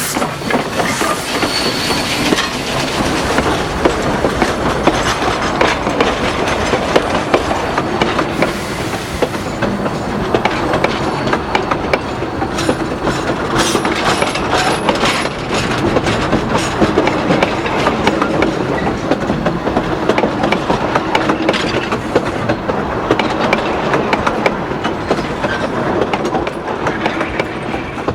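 A narrow-gauge train of empty log cars rolling by, its wheels clattering steadily over the rail joints.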